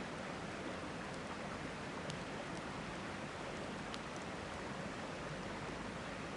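Steady rush of river water, with a few faint pops and crackles from the campfire.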